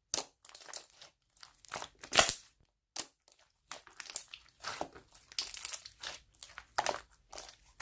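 Slime being squeezed and pressed by hand, giving short irregular bursts of crackling and popping with brief pauses between them.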